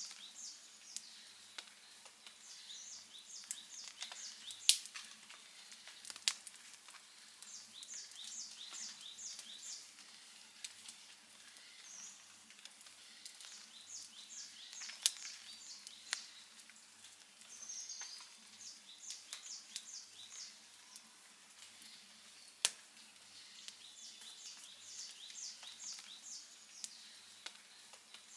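Wood campfire crackling, with a few sharp pops over a faint hiss. A high, rapid chirping call repeats every five or six seconds in the background.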